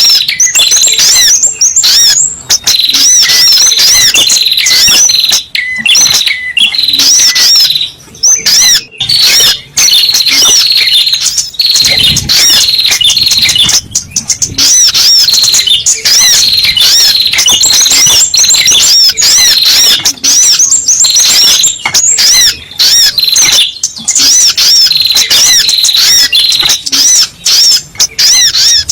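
Sogok ontong (spiderhunter) lure call: a loud, rapid, nonstop series of short, high, sharp chirps with a few brief breaks, the kind of recording played to draw the bird in for trapping.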